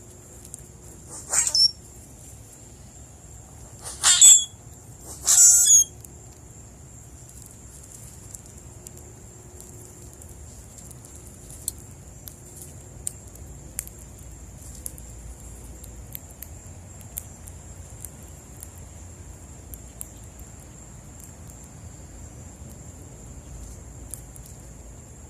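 Three loud, harsh bird calls in the first six seconds, over a steady high-pitched insect trill. After the calls come only faint, scattered ticks.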